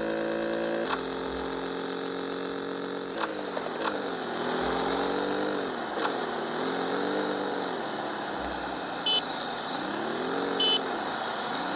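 Yamaha XJ6 motorcycle's inline-four engine running at a steady speed, then revved up and down several times, its pitch rising and falling. Two short high beeps come near the end.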